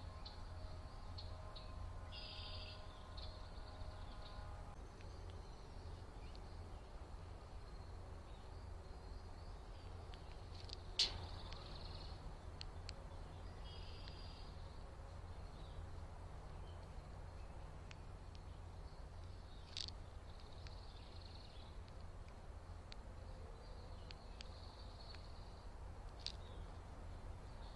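Faint, scattered chirps of small songbirds over a steady low hum, with three sharp clicks, the loudest about eleven seconds in.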